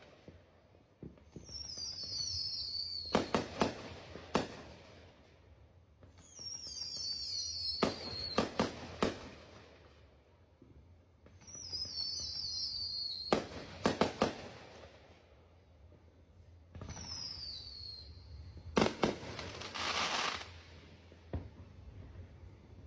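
Fireworks going off in four rounds, about every five seconds: each time a wavering whistle that falls in pitch, then a quick cluster of sharp bangs.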